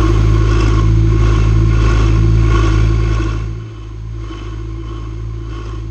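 A steady, loud mechanical drone like a small engine running, which drops in level about three and a half seconds in.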